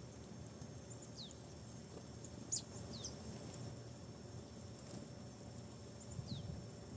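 Small bird's thin, high calls, each a quick downward slur, four times with the loudest about two and a half seconds in, over a faint steady high hum of outdoor ambience.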